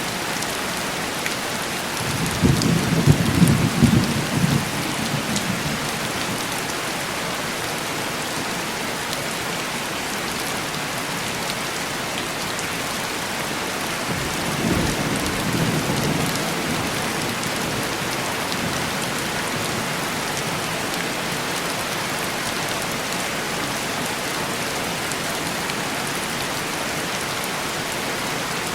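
Steady heavy rain tapping on window glass, with two low rolls of distant thunder: a louder one a couple of seconds in and a softer one about halfway through.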